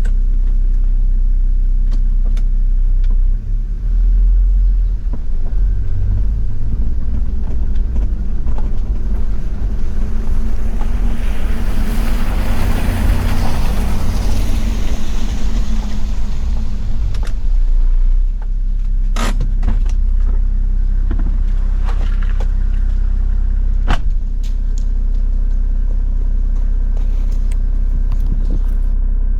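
Toyota Land Cruiser 70-series diesel driving on an unpaved forest road, its engine rumbling steadily under the noise of the tyres. The road noise swells for several seconds around the middle, and there are two sharp knocks later on.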